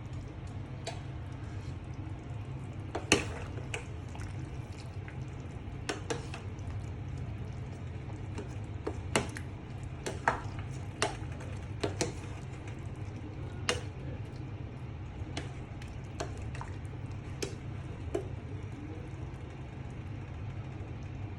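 Utensils clinking and scraping against dishes in irregular, scattered knocks, the sharpest about three seconds in, over a steady low hum.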